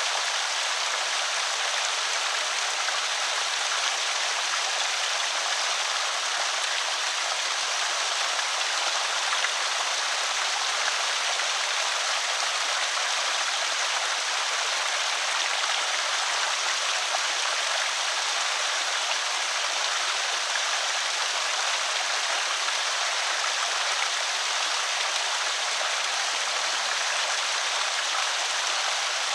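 Water from a small creek spillway pouring and splashing in a steady, unbroken hiss.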